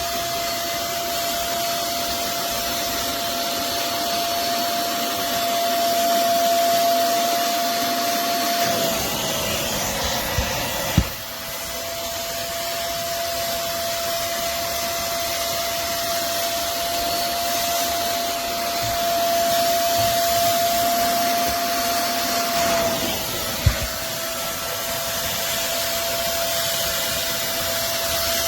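Vacmaster SCA0801 carpet spot cleaner's suction motor running with a steady high whine over a rush of air. Its pitch sags briefly twice, and there are two sharp clicks.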